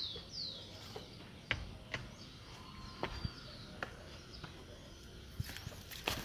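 A bird calling with quick, high, descending notes near the start, over faint outdoor ambience. Scattered light clicks and steps run through it as someone walks over the ruin's floor.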